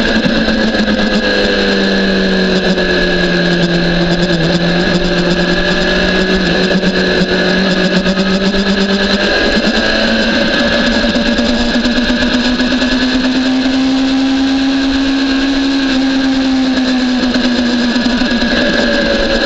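BMW S1000RR inline-four sportbike engine pulling hard under a steady load, its pitch sliding slowly down and back up as the revs change through the corners.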